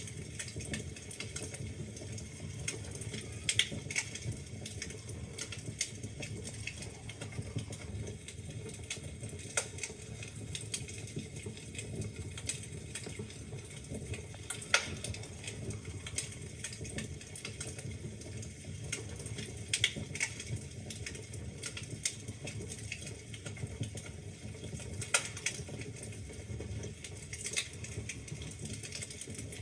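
Logs burning in a fireplace, crackling with irregular sharp pops of varying loudness over a steady low rumble of the flames.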